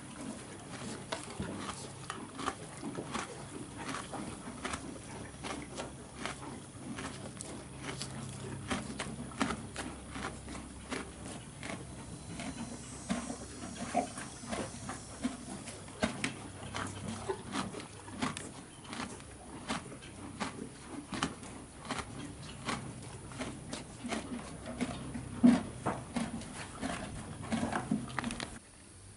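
A horse chewing its feed: an irregular run of crisp crunching clicks, a few each second, over a low grinding murmur.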